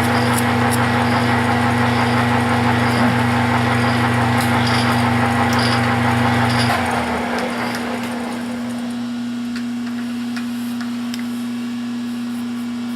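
Metal lathe taking a facing cut on power cross feed: a steady machine drone and hum with faint light ticks about twice a second. About seven seconds in the low drone stops and the sound drops to a quieter steady hum as the lathe keeps turning.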